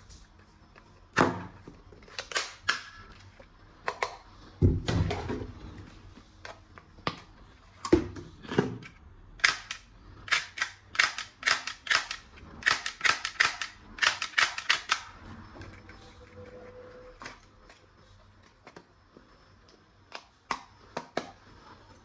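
Sharp plastic clicks and clacks of a toy gun being handled and worked, with a few duller thuds. About halfway in comes a quick run of clicks, several a second, then a few scattered clicks near the end.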